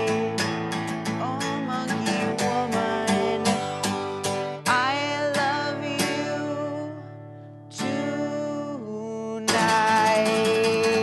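Acoustic guitar strummed in a steady rhythm. About halfway through a chord is struck and left to ring and fade, another follows a few seconds later, then steady strumming resumes near the end.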